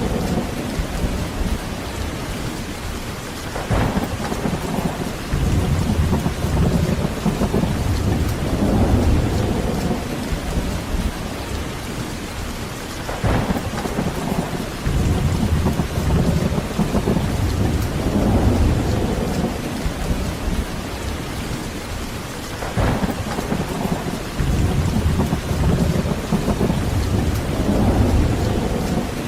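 Heavy rain falling steadily, with rolling thunder rumbling in long swells that rise and fade. Three sharp thunder cracks come at even spacing, about every nine and a half seconds.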